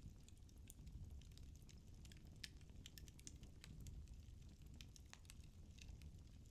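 Firewood burning in a fireplace, crackling faintly with irregular small pops over a low rumble, one pop a little louder about two and a half seconds in.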